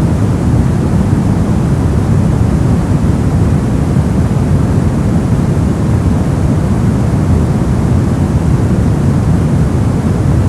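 Steady, unbroken synthetic noise of the kind sold as white noise, weighted heavily to the low end, so it sounds like a deep, even rush rather than a bright hiss.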